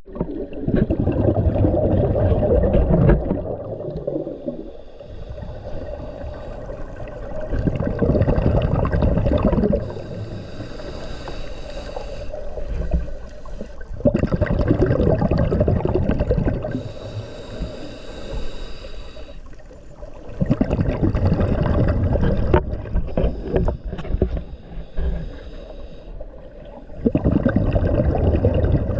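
Water sloshing and gurgling close around the camera at the surface, in heavy surges every few seconds with quieter spells in between.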